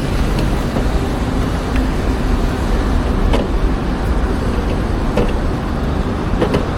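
City street traffic: a steady rumble of passing cars, with a few short clicks.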